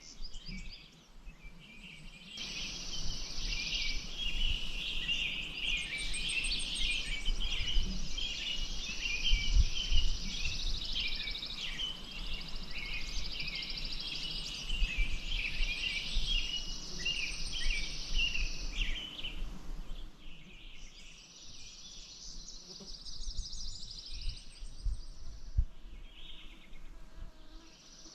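Many birds chirping and singing at once over a steady hiss of lake water. The chorus is busiest from about two seconds in until around twenty seconds, then thins out.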